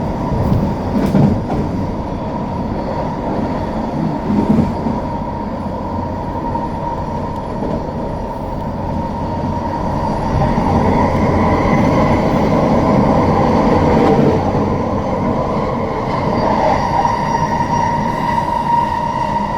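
Passenger train running along the track, heard from on board: a steady rumble with a high whine that grows stronger and gains a second, higher tone about halfway through.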